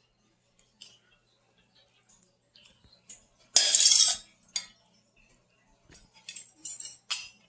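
A spoon clinking and scraping against a casserole dish as marinara sauce is spooned over breaded chicken cutlets. There are scattered light clicks, with one louder scrape about three and a half seconds in.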